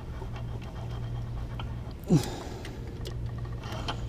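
A person breathing hard with effort while pulling the pin on a timing-belt tensioner, with one brief sharp sound about two seconds in that drops quickly in pitch, over a steady low hum.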